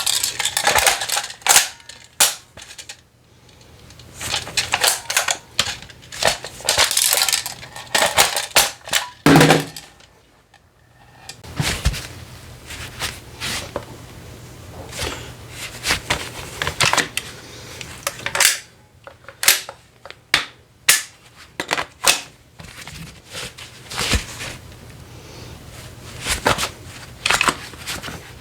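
An airsoft gun being handled and reloaded: a long run of sharp plastic and metal clicks and clacks from the magazine and action, with a short pause about ten seconds in.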